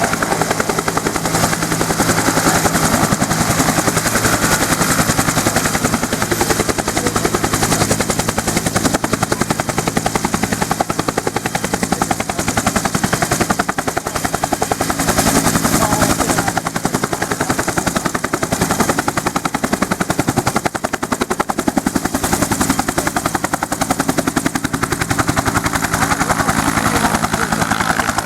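U.S. Army UH-1 Huey helicopter running, its rotor blades beating in a fast, steady chop over the engine's steady drone.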